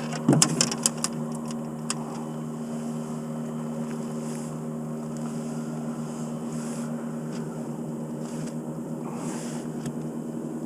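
Boat's outboard motor running steadily at low revs. A quick cluster of sharp clicks and knocks comes in the first two seconds.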